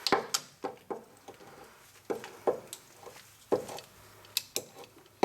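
Irregular sharp metallic clicks and knocks from a hand ratchet and deep socket being worked on the parking brake tensioner's lock nut.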